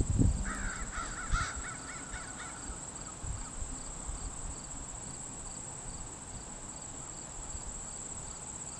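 A bird calling in a quick run of about eight short notes, starting about half a second in and lasting about two seconds, over a faint steady high tone with faint regular ticks.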